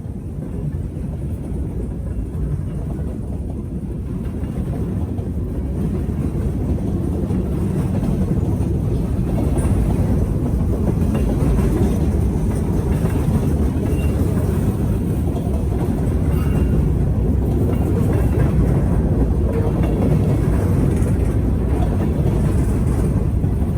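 Norfolk Southern freight train approaching and passing, a low rumble that grows steadily louder over about the first eight seconds, then holds steady as it rolls by.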